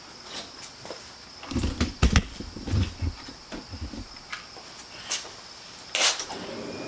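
Knocks, low thumps and clicks of someone climbing into a car's driver's seat before starting it, with a sharp click about six seconds in. A faint steady high-pitched tone runs underneath.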